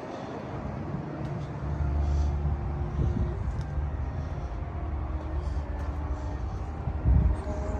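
Vehicle running with a steady low rumble that grows stronger about a second and a half in, with a brief louder low thump near the end.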